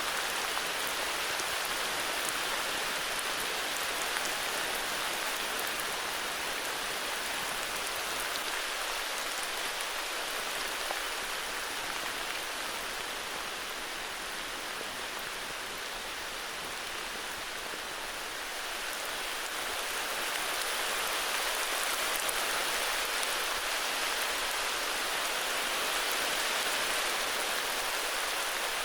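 Heavy rain falling steadily, a dense even hiss of drops, easing slightly about halfway through and then coming down harder again.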